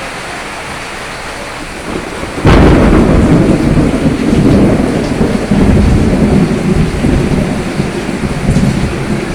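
Steady rain, then a thunderclap about two and a half seconds in: a sharp crack followed by a long low rumble that rolls on under the rain.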